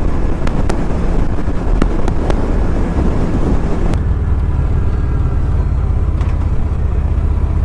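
Motorcycle engine running with wind rushing over the microphone and a few sharp clicks; about four seconds in the wind noise drops away, leaving the engine idling with a fast, even low beat, as when the bike slows to a stop.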